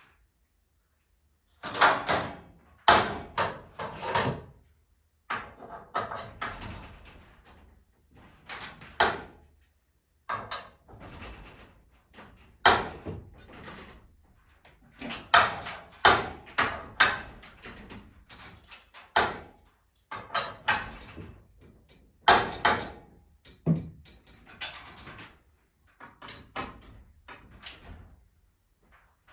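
Irregular series of loud metal knocks and clanks, each with a short ring, as garage door torsion spring hardware and tools are handled.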